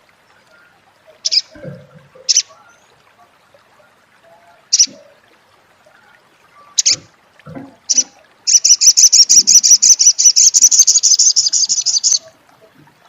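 A small songbird, the one called sogon or sogok ontong, giving its 'crecet' call: a few sharp, high single chips, then a fast, loud chattering run of about ten notes a second lasting some four seconds.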